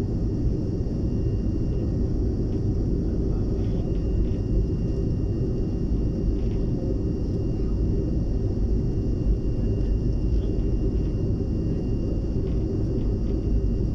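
Cabin noise of a BAe 146-200 with its four turbofan engines running: a steady low rumble with a faint, steady high whine.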